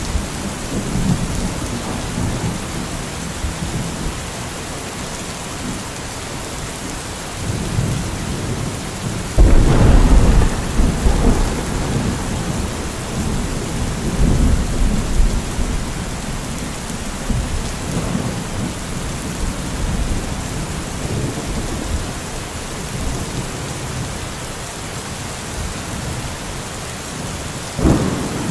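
Steady heavy rain hissing, with thunder rumbling through it: the loudest roll of thunder comes about ten seconds in, and another starts near the end.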